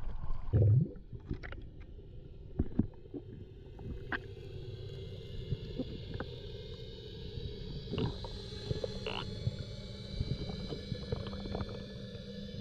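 Steady drone of a boat engine, a constant low hum with faint higher tones above it. Scattered clicks and knocks run through it, with a heavy low thump about half a second in.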